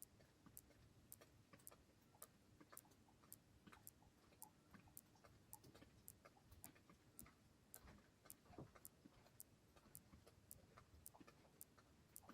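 Faint, steady ticking: a regular run of sharp little clicks, about two to three a second, over a low faint rumble.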